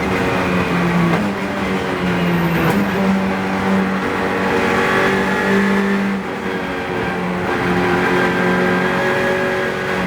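Renault Clio Cup race car's engine heard from inside the car while lapping a race track. It runs loud and hard throughout, its pitch stepping up and down several times as the driver works through the gears.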